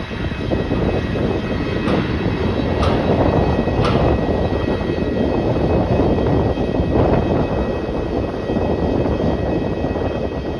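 Jet airliner engines running loud and steady: a dense low rumble with faint, steady high whining tones above it.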